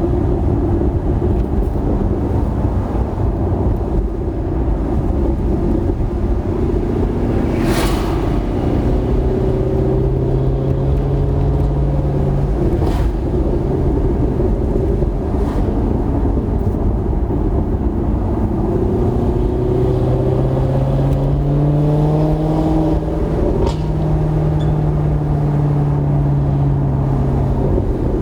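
2008 Maserati GranTurismo's 4.2-litre V8 breathing through a Kreissieg aftermarket exhaust, running with a steady low rumble. The engine note climbs gently and holds twice, once about ten seconds in and again in the last third, with a few short sharp knocks along the way.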